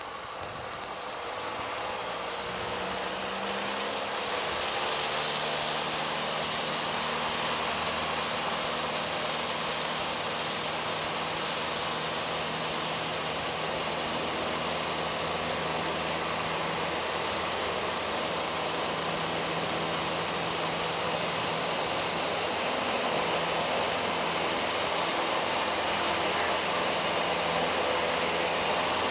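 Steady in-flight drone of a Piper Cherokee 140's four-cylinder engine and propeller heard in the cabin, its pitch and level rising slightly over the first few seconds and then holding steady at cruise.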